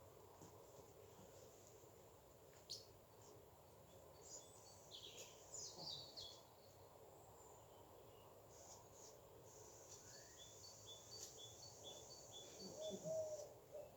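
Near silence with faint birdsong: a few high chirps a few seconds in, then a bird repeating a short high note about twice a second, and a low call near the end.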